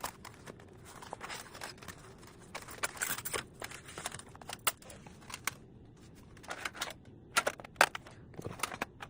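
Crinkling and rustling with scattered sharp clicks and taps: packaging and a campfire stand being unpacked and handled.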